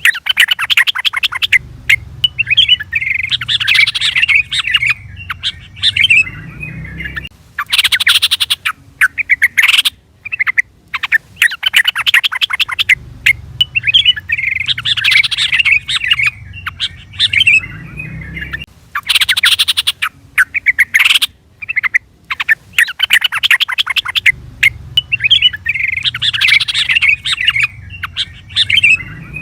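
Yellow-vented bulbul (trucukan) calling, a looped recording that repeats about every eleven seconds. Each cycle has rapid harsh chattering and bubbly whistled song phrases.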